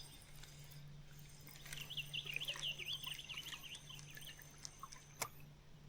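A songbird singing a quick, warbling run of notes for about two and a half seconds, starting a couple of seconds in, over a faint steady low hum.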